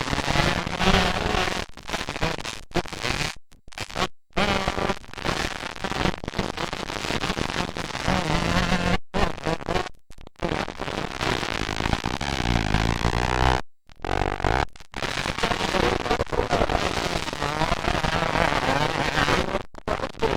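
Motocross dirt bike engines buzzing and revving as bikes race, their pitch rising and falling through the gears, with a crackling edge. The sound breaks off abruptly several times.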